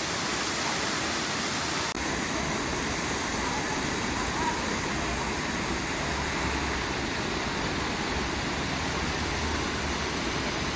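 Waterfall rushing steadily, an even wash of falling water. The rushing shifts abruptly in tone about two seconds in.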